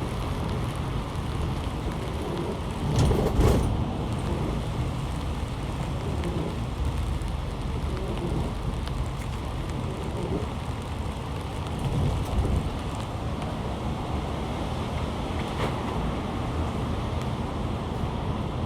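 Heavy rain falling over a steady low rumble, swelling louder briefly about three seconds in and again around twelve seconds.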